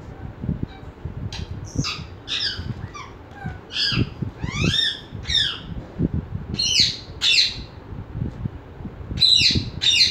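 A bird chirping and squawking over and over in short sweeping calls, busiest near the end, over low irregular knocks and scraping.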